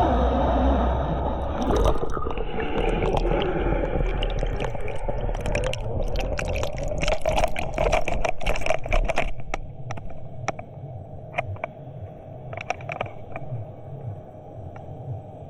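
Water heard through an action camera that has gone into the sea. There is gurgling and bubbling with many sharp clicks, then about ten seconds in it settles into a quieter low underwater hum with only scattered clicks.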